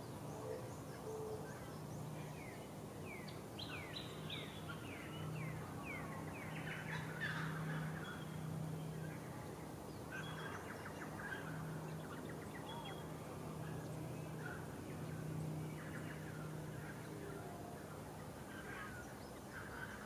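Small birds chirping: a quick run of short descending notes a few seconds in, then scattered chirps, over a low hum that swells and fades.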